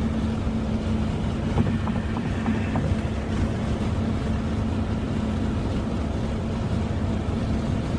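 Car engine running at a steady cruise with constant road noise, a low even drone that neither revs up nor falls away.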